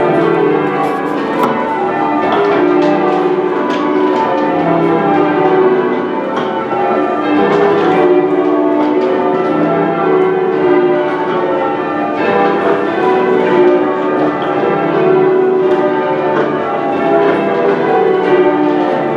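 Manchester Cathedral's ring of ten church bells in change ringing: a continuous, evenly paced stream of overlapping bell strikes, each bell ringing on.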